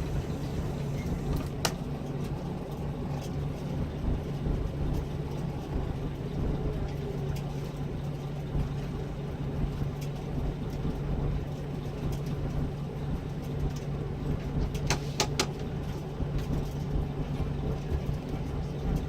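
Engine of a Scania K340EB6 coach, a 9-litre five-cylinder diesel, running steadily at an unchanging note, heard from inside the coach. A few sharp clicks cut through it, once about a second and a half in and twice in quick succession about fifteen seconds in.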